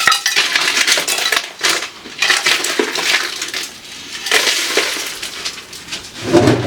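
Plastic food packaging crinkling and rustling in the hands as leftovers are cleared out of a refrigerator, with a few light clinks of containers.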